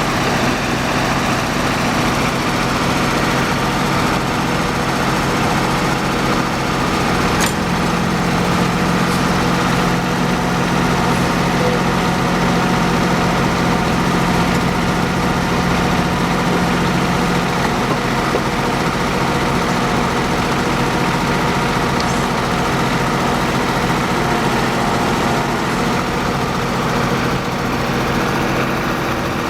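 Small tractor engine running steadily, driving a John Deere #8 backhoe attachment. Its hum grows a little stronger for about ten seconds from a quarter of the way in.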